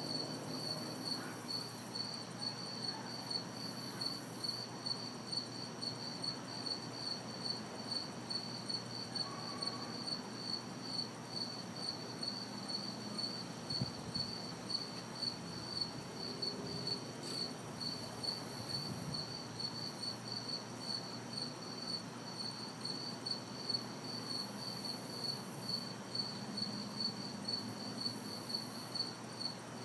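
Crickets chirping steadily in a fast, even pulsing rhythm, with a higher insect buzz that comes and goes several times, over a faint, steady hum of distant city traffic.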